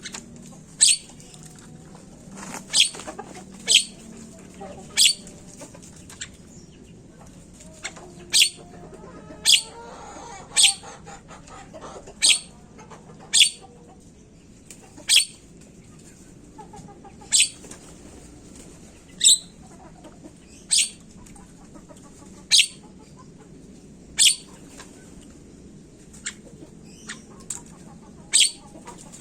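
Javan myna giving loud, short, sharp high calls every one to two seconds, each note dropping slightly in pitch, with softer chattering between them.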